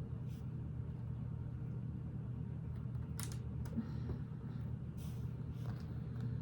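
Steady low background hum, with a few short clicks and light handling noises of Lego pieces being picked up and pressed together, the loudest about three seconds in.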